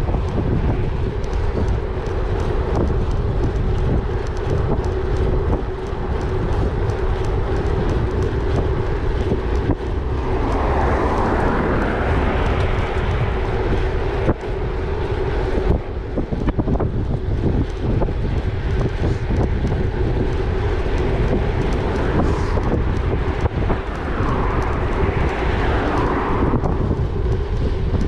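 Wind rushing over the microphone and the rumble of a gravel bike's tyres rolling along, under a steady hum. Twice, about ten seconds in and again near the end, a louder rushing swell rises and fades.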